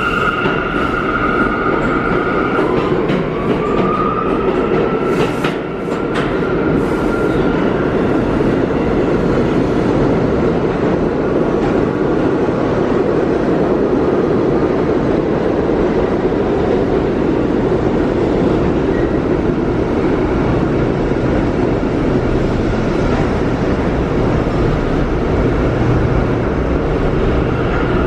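An R179 New York City subway train running along the station track, with a steady loud rumble of wheels on rail. A high electric whine of the train is heard near the start; it dips and then rises again about three seconds in, and a few sharp clicks follow a couple of seconds later.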